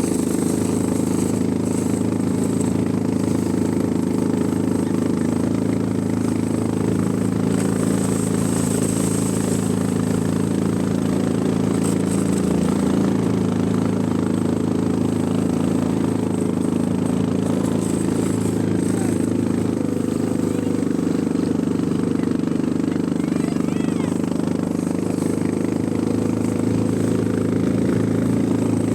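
ATV engine running steadily, its pitch holding nearly constant.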